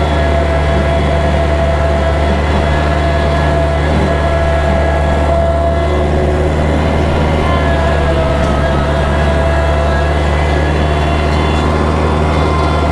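Kubota tractor's diesel engine running steadily while bush hogging with a rotary cutter, a constant drone with a steady higher whine over it.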